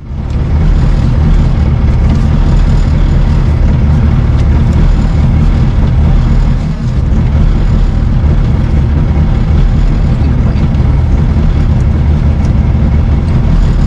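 Proton Neo rally car's engine running steadily while the car waits at the stage start, heard from inside the stripped cabin, loud and low-pitched, with a brief lull about seven seconds in.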